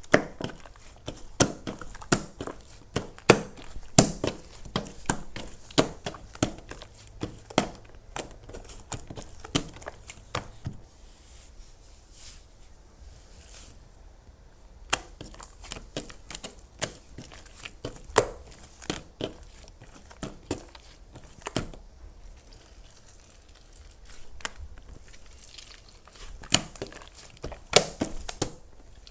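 Close-up crisp crinkling and crackling of a handmade crinkly object being squeezed and handled, in many irregular sharp crackles, thinning out for a while in the middle.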